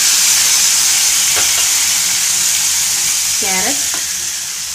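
Chopped tomato sizzling loudly in hot oil in a kadai with roasted vermicelli and onion, the sizzle fading slowly.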